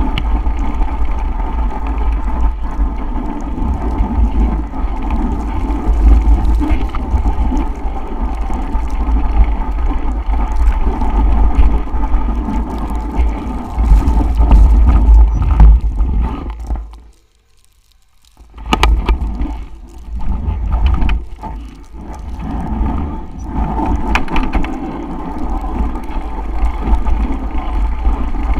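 Wind buffeting the microphone with a heavy, steady rumble and a hiss of moving air on a bicycle ride through a snowstorm. About two-thirds of the way in, the sound cuts out almost completely for a second or so, then comes back in gusts.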